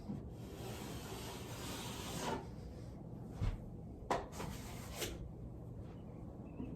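A 12-inch drywall knife scraping joint compound across a seam in long strokes, with a few short knocks and clicks from the knife and mud pan.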